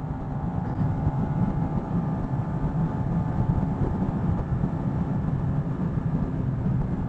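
125cc motorcycle engine running at a steady pace, with a low rumble of road and wind noise underneath.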